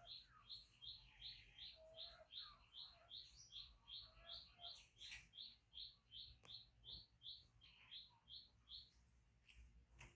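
A bird chirping faintly and steadily, about three short high chirps a second, stopping about nine seconds in.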